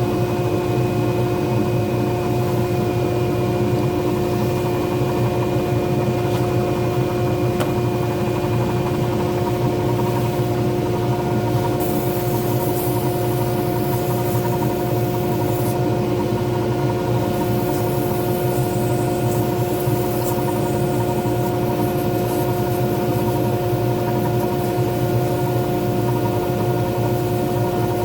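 Small lathe motor running with a steady, even hum. From about twelve to twenty seconds in, a high hiss comes and goes over it.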